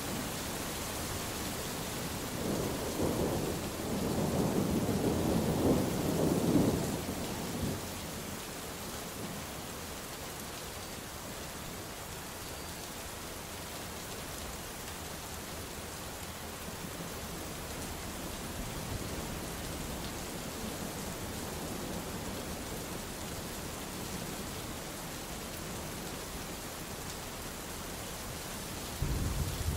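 Steady rain falling, with a long low rumble of thunder starting a few seconds in and rolling for about five seconds. Another rumble begins near the end.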